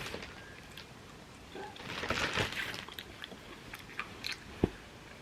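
A person chewing and eating a piece of fruit close to the microphone, with wet crunching mouth sounds about two seconds in and a sharp click near the end.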